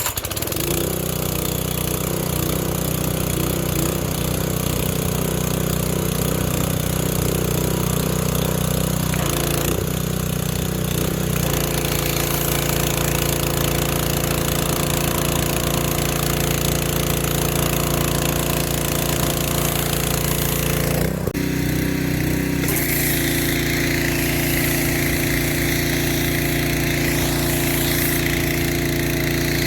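Pressure washer's small engine running steadily, its pitch shifting a couple of times. A higher hiss joins it about two-thirds of the way through.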